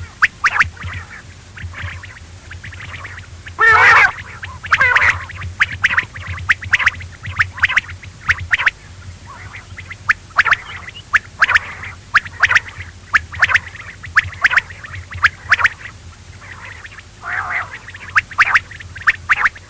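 Quail calling over and over: short, sharp notes in quick runs of several, with a louder, rougher call about four seconds in, over a steady low hum.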